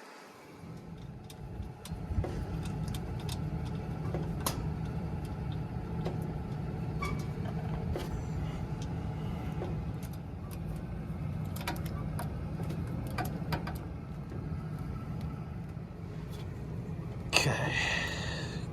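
Rooftop gas heating unit running with a steady low rumble that builds over the first couple of seconds, with scattered clicks and taps of hands and tools on the unit's metal.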